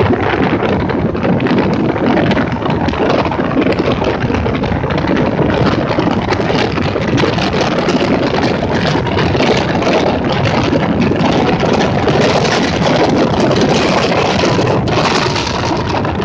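Motorboat running steadily under way, its engine noise mixed with a dense rush of wind and water.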